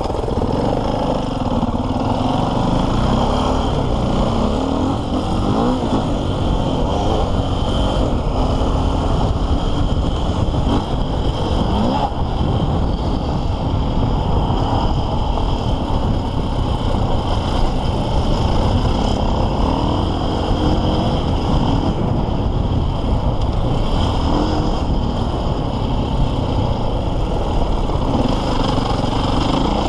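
KTM EXC 450 enduro motorcycle's single-cylinder four-stroke engine, heard onboard while the bike is ridden off-road, its revs rising and falling continuously.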